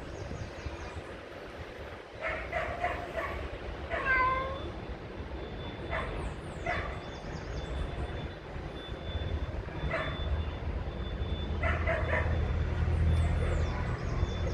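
Repeated short animal calls, some in quick runs of three or four, one with a falling pitch, over high thin chirps. A low engine-like rumble grows louder in the second half.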